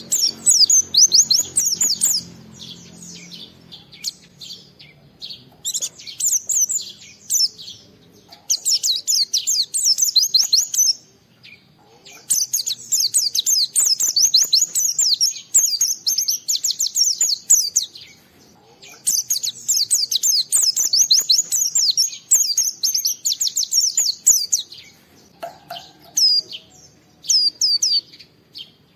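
White-eye (pleci) singing vigorously: long, fast runs of high, thin twittering notes in bouts, broken by short pauses of a second or so.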